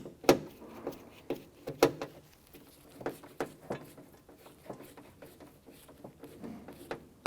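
Irregular clicks and knocks of plastic and metal parts being handled and fitted inside a car door shell, as the door lock actuator is set back in place and secured. The sharpest knocks come just after the start and about two seconds in.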